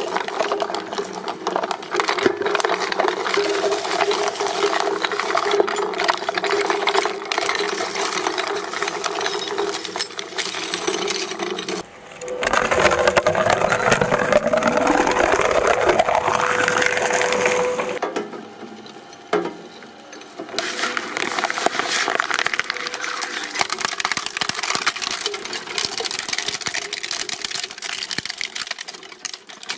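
Shredding machines grinding and breaking up material, a dense crackling clatter. About twelve seconds in it turns louder, with a whine rising in pitch for several seconds, then drops to a brief lull before the clattering starts again.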